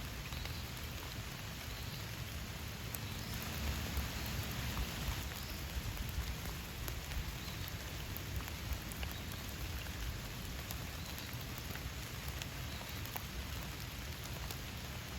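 Steady rain falling, with individual drops ticking sharply close by; it grows a little heavier a few seconds in.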